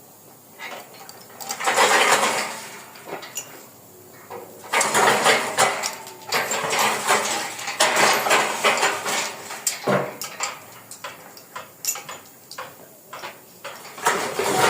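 Metal clattering and clinking in irregular bursts, with a sharp knock about ten seconds in.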